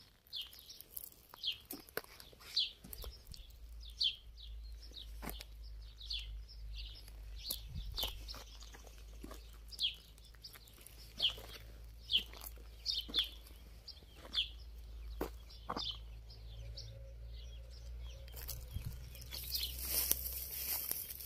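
Birds chirping over and over, short high chirps that slide downward, with a low steady rumble underneath and a few scattered clicks. A hissing rustle builds near the end.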